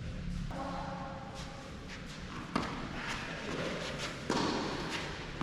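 Two sharp hits of a tennis ball, about a second and a half apart, ringing out in the echo of an indoor court hall, with a few faint ticks between them.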